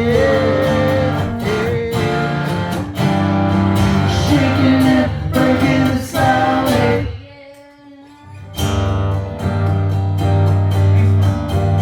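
Live song: a singer's drawn-out vocal lines over strummed acoustic guitar and a deep bass line. About seven seconds in the music breaks off to near quiet for a moment, then the guitar and bass come back in together.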